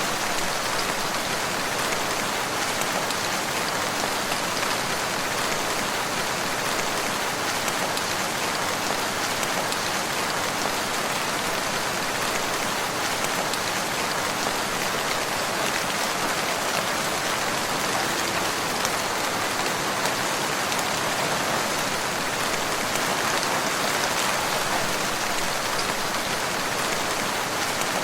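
Steady rain falling: an even hiss of many drops that holds the same level throughout.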